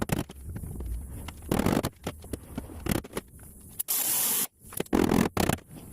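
Irregular scraping or rubbing strokes, with a short, louder burst of hiss about four seconds in.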